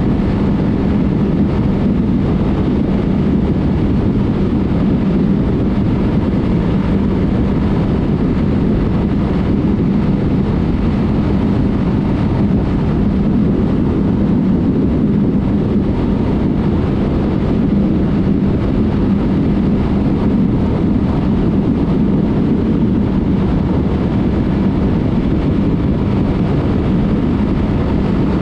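Yamaha MT-03 motorcycle's parallel-twin engine through a Mivv aftermarket exhaust, running at a steady cruise with an even hum and heavy road and wind noise.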